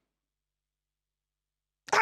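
Near silence: a dead-quiet pause in a man's sermon, with his voice starting again just before the end.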